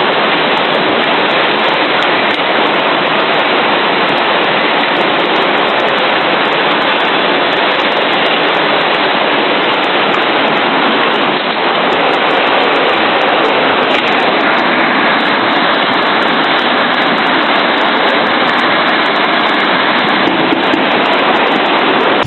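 Loud, steady rush of floodwater.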